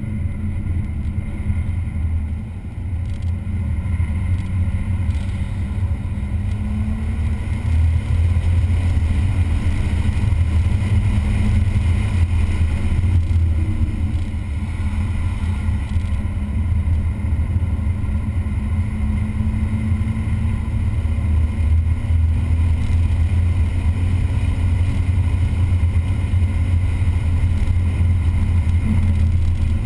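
A vehicle's engine running hard on a race track during a track-day session. Its pitch climbs slowly through each gear and drops back several times, over a steady heavy drone.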